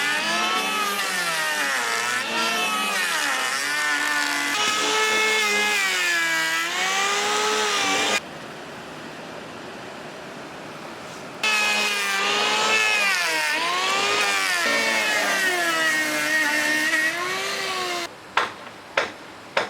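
Power saw cutting wood, its motor pitch dipping and rising as it bites into the wood, with a pause of about three seconds midway. Near the end come sharp knocks, a little more than one a second.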